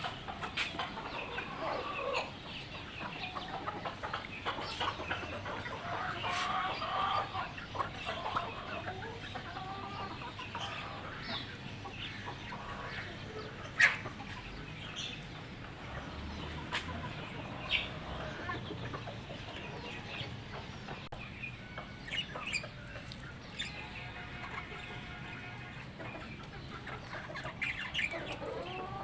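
A flock of chickens clucking and calling, with many short calls overlapping throughout. A single sharp click about halfway through is the loudest sound, and one longer, held call comes near the end.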